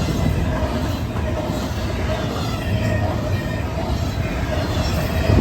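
Freight train rolling past, its cars running steadily along the rails, with wind buffeting the microphone.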